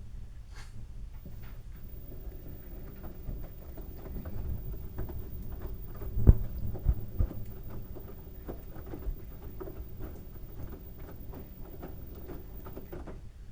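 LG washing machine drum turning a load of wet towels, with a low rumble and irregular light patter and knocks as the towels tumble. One louder thump about six seconds in, followed by two smaller ones.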